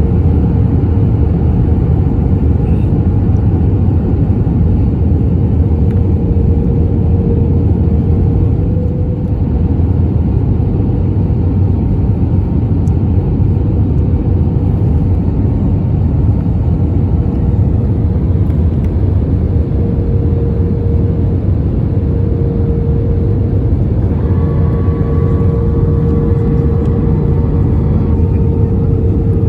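Airbus A320neo cabin noise during descent: a steady rumble of engines and airflow with a constant hum. A fainter, higher whine joins in toward the end.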